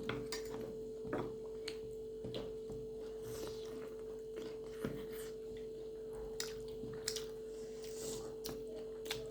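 A steady mid-pitched electrical hum, with faint scattered clicks and taps from things being handled at the table.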